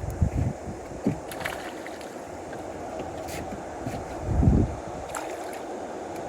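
Wind buffeting the microphone, a steady rushing, with a few low thumps; the loudest thump comes about four and a half seconds in.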